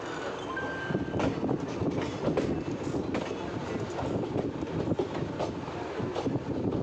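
Saryu Yamuna Express passenger train running along the track: a steady rumble with irregular clicks and knocks of the wheels over the rail joints, and a brief thin high squeal about half a second in.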